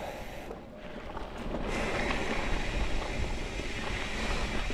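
Mountain bike riding onto a wet, muddy dirt trail: tyres rolling through soft ground with wind noise on the microphone, getting louder about two seconds in.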